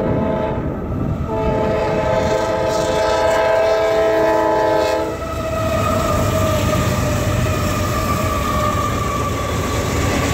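CSX freight train's diesel locomotive horn blowing a chord of several notes, breaking briefly about half a second in, then held until it cuts off about five seconds in. After that the passing locomotives and freight cars make a loud steady rumble of engines and wheels on the rails.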